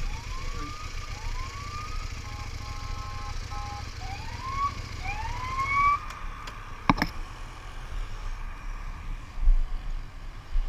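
Electronic siren sounding a series of rising whoops, then a brief two-tone alternation, then more whoops. A sharp click about seven seconds in, over a steady low rumble.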